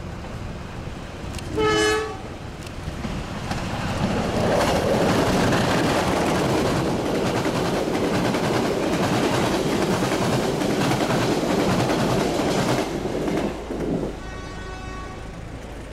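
A diesel locomotive gives one short horn blast about two seconds in. Its passenger train then passes close by, the locomotive and the coaches' wheels on the rails building to a loud rush that holds for about nine seconds and drops away near the end.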